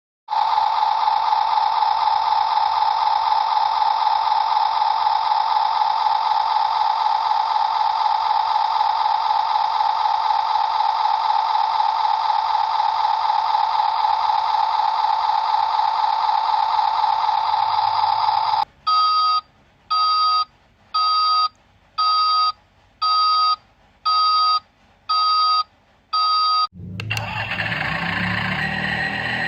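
A loud, steady electronic tone, then about eight evenly spaced electronic beeps, roughly one a second, like a reversing beeper; a few seconds before the end it gives way to a rougher, lower sound.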